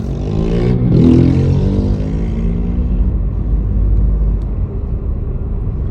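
A vehicle's engine passing on a flooded road, its pitch sweeping up and down around a second in, with a rushing hiss that fades over the next couple of seconds. A steady low rumble runs underneath.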